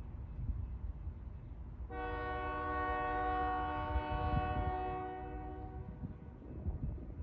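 Diesel locomotive air horn sounding one steady blast of about four seconds, a chord of several notes, starting about two seconds in, over the low rumble of a passing train.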